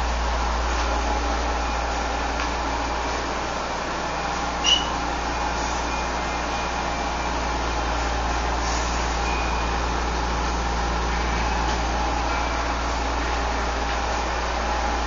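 Steady low rumble of an idling vehicle engine, with one sharp click and a brief high chirp about five seconds in.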